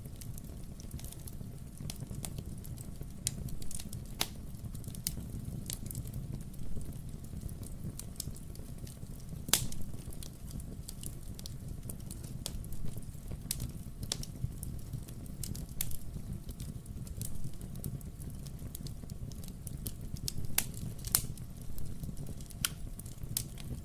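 Wood fire burning in a fireplace: a steady low rumble of flames, with irregular sharp crackles and pops from the burning logs, the loudest about ten seconds in and again near twenty-one seconds.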